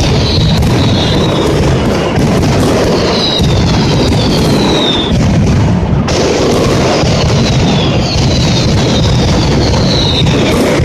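Mascletà firecracker barrage: a dense, unbroken rattle of firecracker bangs and booms, with repeated falling whistles above it.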